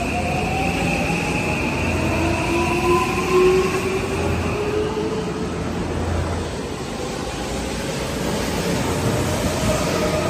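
Electric train pulling out along the platform, its traction motors whining in several tones that rise in pitch as it picks up speed, over the rumble of the wheels on the rails. A high steady whine fades out about halfway through.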